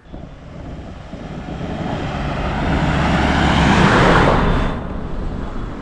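A road vehicle passing close by, its noise growing steadily to a peak about four seconds in, then dropping away quickly.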